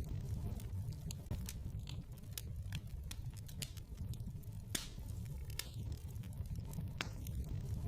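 Wood fire burning in a fireplace: a steady low rumble of flame with irregular crackling and scattered sharp pops from the burning logs.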